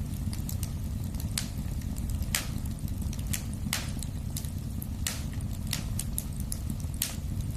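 Wood fire burning in a fireplace: a steady low rumble of the flames with sharp, irregular crackles and pops from the burning logs, several loud snaps among many small ones.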